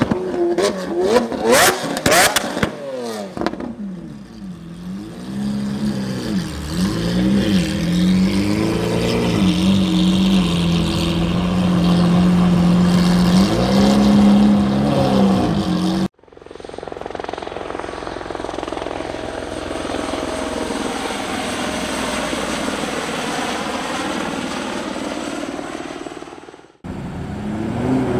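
Lamborghini Aventador's V12 being revved while parked: a burst of sharp crackles and pops in the first few seconds, then repeated revs rising and falling over a steady idle. About sixteen seconds in, it cuts abruptly to a steady, even rushing noise with a faint high whine, which lasts until another sudden cut near the end.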